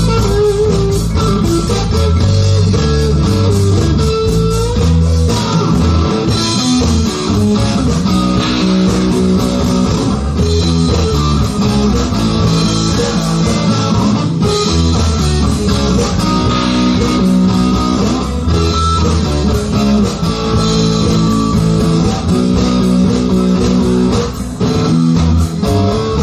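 Rock band playing an instrumental passage live, with electric guitar and bass guitar over drums.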